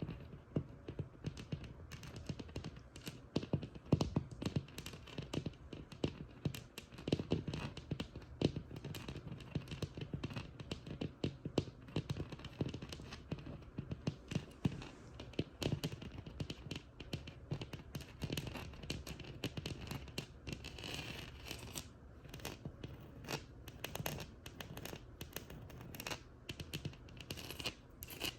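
Tapping and scratching on a textured wall: many quick, irregular taps, with a longer stretch of scratching about twenty seconds in.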